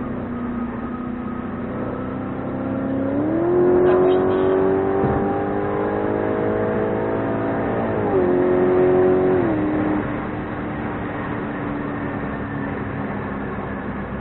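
Audi RS5's 4.2-litre V8 heard from inside the cabin through a JH Motorsports valved cat-back exhaust with the valves open, pulling hard under acceleration. The engine note jumps up about three seconds in and climbs steadily and loud for about five seconds. It then falls back in two steps to a steady cruise note.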